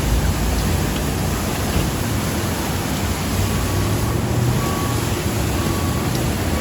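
Steady rushing noise over a low engine rumble. From about halfway through, faint short beeps come about once a second.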